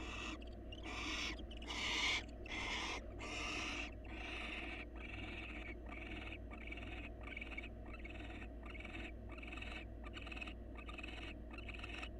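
Barn owl giving a run of rasping hiss calls, longer and louder in the first few seconds, then shorter and evenly spaced at about two a second. A steady low electrical hum runs underneath.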